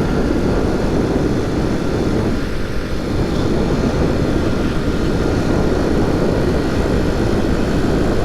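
Honda C90 step-through motorcycle under way on the road: heavy wind rush over the microphone mixed with the small single-cylinder four-stroke engine running steadily.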